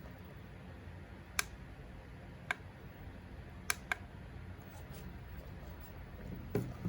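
Plastic buttons and switches on a handheld RC car transmitter clicking: a handful of sharp single clicks spaced a second or so apart, two in quick succession near the middle and a cluster near the end.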